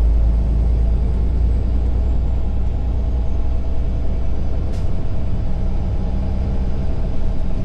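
Truck's diesel engine and road noise as a steady low drone while driving, with one short click about five seconds in.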